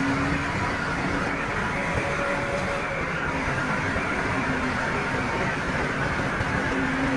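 Diesel engine of heavy earthmoving machinery running steadily, with a faint hum that comes and goes.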